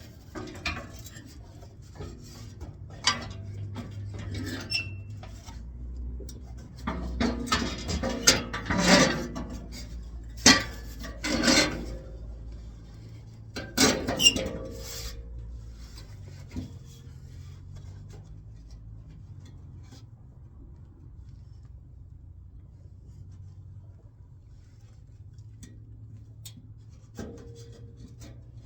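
Metal tools and parts clinking, knocking and scraping during oil-change work, busiest in the first half with several sharp knocks. After that only a low hum and the odd tick remain.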